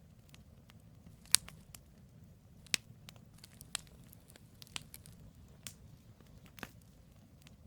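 Burning firewood in a campfire crackling: sharp, irregular pops and snaps of the logs, the loudest about a second in, over a low steady rumble of the fire.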